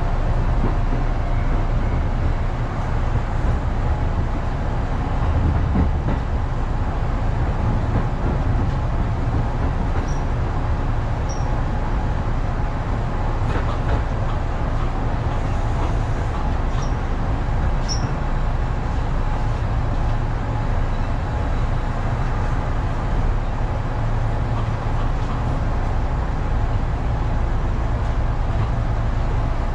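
Electric commuter train heard from inside the driver's cab: an even rumble of wheels on track as it slows into the station, with a few short, high squeaks in the middle.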